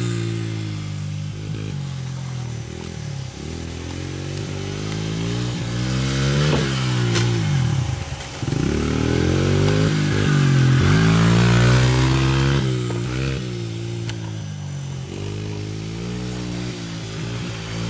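Dirt bike engine revving as the bike rides and jumps, its pitch repeatedly rising and falling with the throttle. About eight seconds in, the revs drop away and then climb again, as when the throttle is chopped over a jump and picked up on landing.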